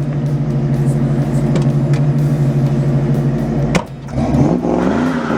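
A vehicle engine running steadily, then a sharp click near the end and the engine pitch rising as it accelerates.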